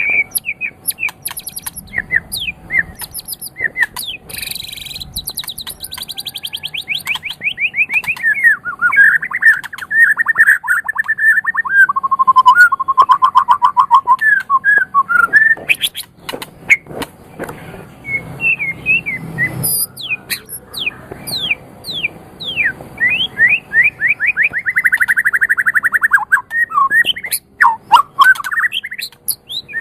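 White-rumped shama (murai batu) singing a long, varied song. It runs through rapid trills, quick series of notes that slide down in pitch, and clear whistles, with sharp scratchy high notes between phrases.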